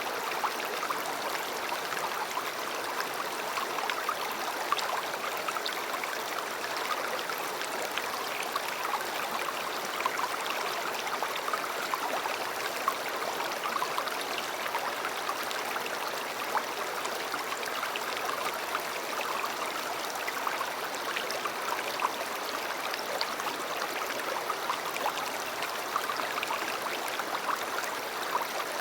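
Steady rushing and babbling of a river, a continuous flow of water with many small splashes and trickles.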